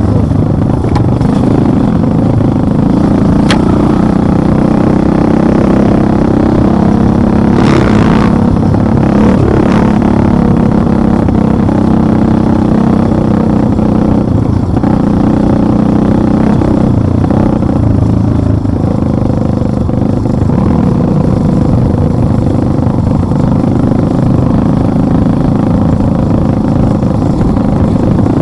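Motorcycle engine running steadily and loudly while riding, with a few short knocks.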